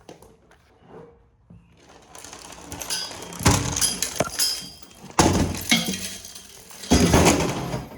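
Metal printer parts clanking and clattering, with ringing metallic tones and three sharp knocks, about three and a half, five and seven seconds in.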